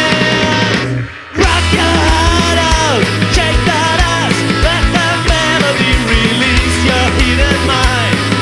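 Live punk rock band playing loud, with a steady drum beat under the guitars and bass. About a second in, the band stops dead for a moment, then crashes back in at full volume.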